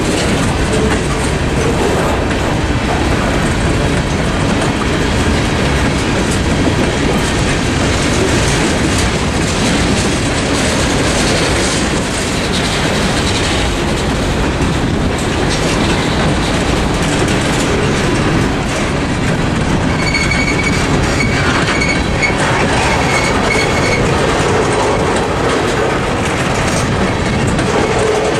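Freight cars of a Norfolk Southern mixed freight rolling steadily over a grade crossing, a loud continuous rumble of steel wheels on rail. About twenty seconds in, a high, steady squeal from the wheels lasts a few seconds.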